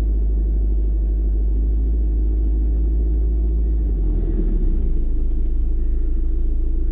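A car driving, with a steady low engine and road rumble; the deepest part of the drone changes about four seconds in.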